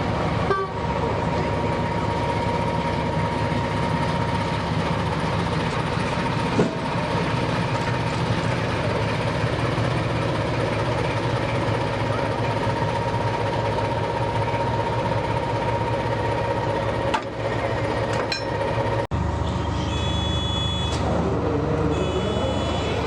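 Diesel locomotive engine running steadily. Near the end a locomotive horn sounds two short high blasts.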